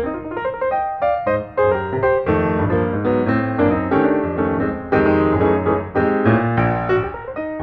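Piano music: a continuous run of notes, each struck and fading, with chords underneath.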